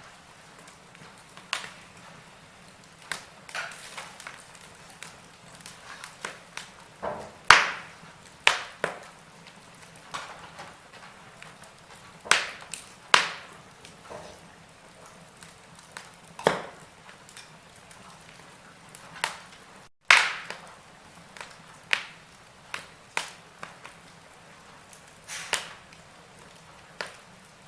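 Wood fire in a fireplace crackling: irregular sharp pops and snaps over a faint hiss, the loudest snaps about seven and twenty seconds in.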